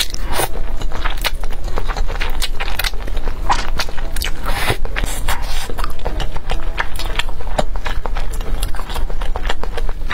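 Close-miked eating sounds: spicy instant noodles being slurped in, then wet chewing with many small mouth clicks.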